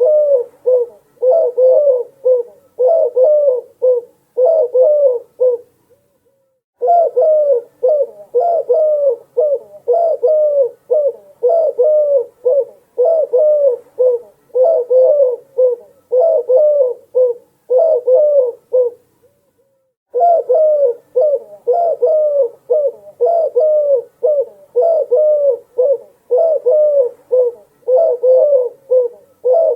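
Doves cooing, phrase after phrase in quick succession, breaking off twice for about a second.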